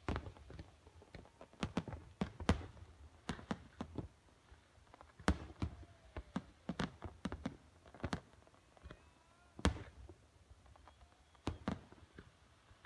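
Fireworks going off in an irregular run of sharp bangs and pops, a few louder, deeper booms among them, with a few faint short whistling glides near the middle.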